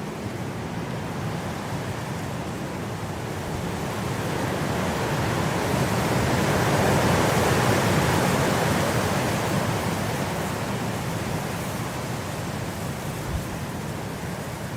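Blizzard wind blowing as a steady rush of noise, swelling into a strong gust about halfway through and then easing off.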